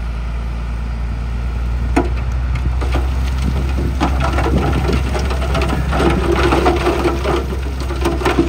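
A heavy diesel engine running steadily under loose rock clattering and crunching, starting about two seconds in and growing busier after about four seconds as the stone tumbles and grinds.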